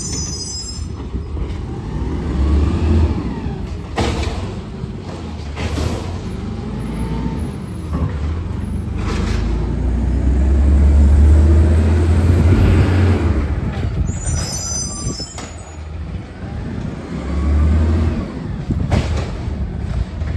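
Garbage truck's diesel engine running, swelling louder for a few seconds in the middle. Sharp knocks come at about 4 and 6 seconds, and short high squeals at the start and again around 14 seconds.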